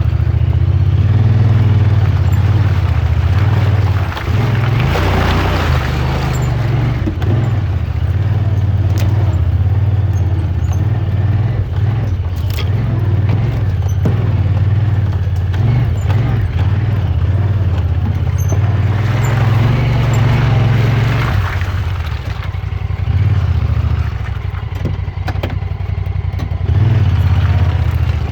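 Side-by-side UTV engine running as it drives a rough trail in four-wheel drive, with a steady low drone. Louder rushes of noise and rattling come in about five seconds in and again around twenty seconds.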